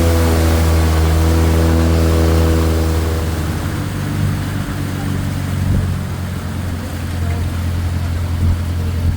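A boat's engine running loudly and steadily, its tone dropping and settling lower about three seconds in as the engine eases off.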